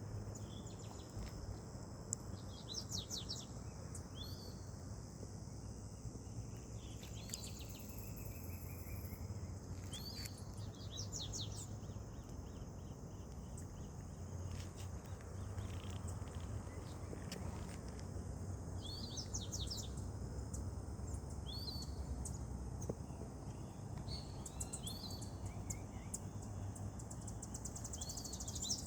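Small birds singing in short, repeated chirping phrases every second or two, over a steady low outdoor rumble and a faint steady high hiss.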